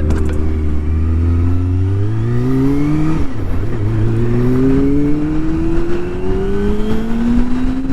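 Kawasaki Ninja ZX-25R's inline-four engine through a Yoshimura R-77 full exhaust, accelerating hard: the pitch climbs, drops briefly on a quick-shifted upshift about three seconds in, then climbs again through the next gear.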